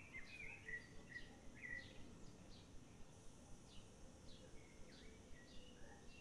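Faint bird chirps and short whistles, repeating about twice a second over a low steady hiss.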